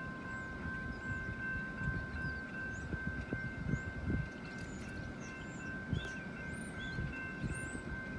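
Loaded coal train cars rolling past, a steady low rumble with irregular knocks of wheels over the rails, under a steady high whine. Small birds chirp faintly.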